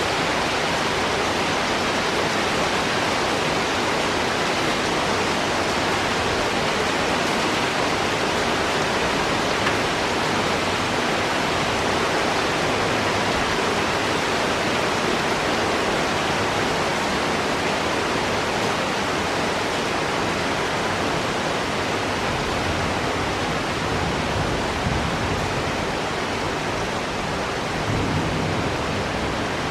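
Heavy rain falling steadily in a forest, a dense even hiss of downpour.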